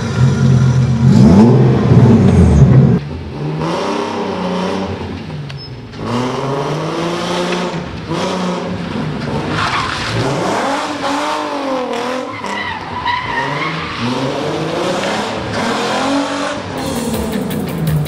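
Sports car engine just started and running loudly for about three seconds, then quieter with its pitch rising and falling again and again as the car accelerates and changes gear while driving.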